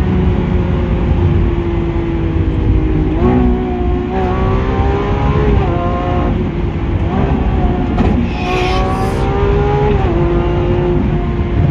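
Lamborghini Aventador SVJ's V12 engine, through a Balboni exhaust, running at fairly steady revs. Its pitch steps up and down several times as gears change.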